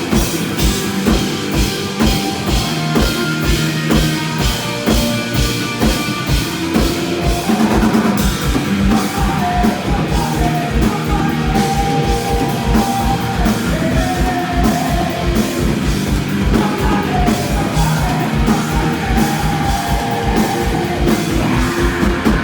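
Rock band playing live: a full drum kit with a fast, steady kick-drum beat drives the song, and a higher melodic line comes in about eight seconds in.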